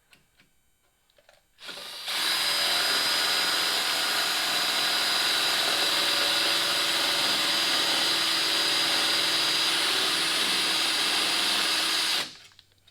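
Power drill boring a hole for the trim's mounting bolts, starting about two seconds in and running at a steady speed for about ten seconds before stopping suddenly near the end.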